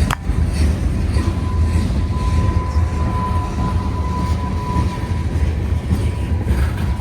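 Train cars rolling past at a crossing with a heavy, steady low rumble. A sharp click comes right at the start, and a thin, steady wheel squeal runs from about a second in to about five seconds in.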